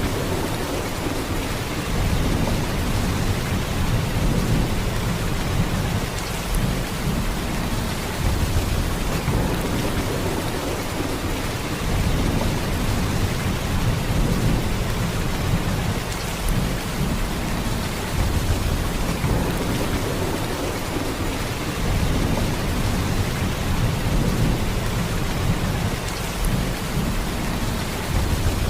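Heavy rain in a steady downpour, with a deep low rumble that swells and eases every few seconds.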